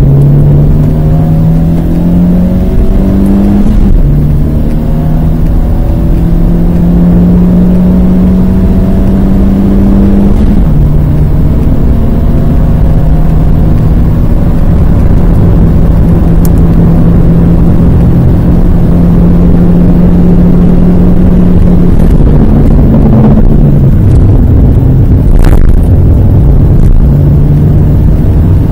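Renault Twingo's 1.2-litre four-cylinder engine heard from inside the cabin, accelerating hard: the pitch climbs, drops at upshifts about four and ten seconds in, then rises slowly at high revs. Near the end it breaks off and changes as the car slows and shifts down, with a brief click, over a steady rumble of road and wind noise.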